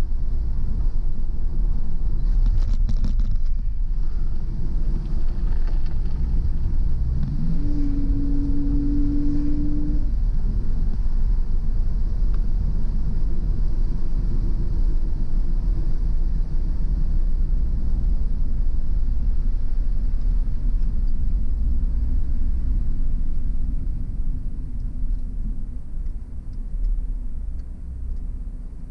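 Car driving along a road: a steady low rumble of engine and tyres. About seven seconds in, a tone rises and holds for a few seconds before stopping. Near the end the rumble gets quieter.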